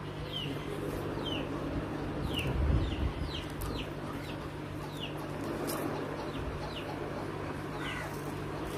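A bird cheeping over and over in short, high, falling notes, one to two a second, above a steady low hum. A dull low bump comes about three seconds in.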